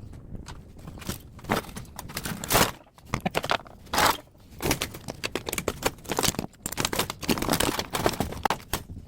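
Irregular metal knocks, clanks and scraping from a scrapped air-conditioner outdoor unit being handled and taken apart by hand, with the loudest knocks about two and a half and four seconds in.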